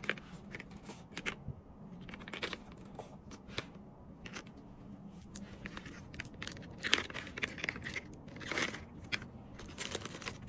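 Hands packing small stationery items such as pens: plastic packaging rustling and crinkling, with scattered light clicks and taps, busiest in the last few seconds.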